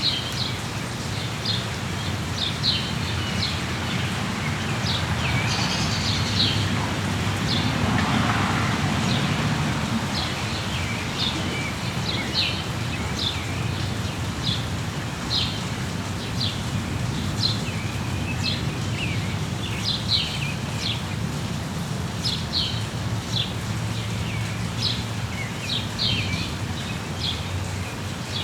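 Steady rain falling, with small birds giving short, high chirps about once a second.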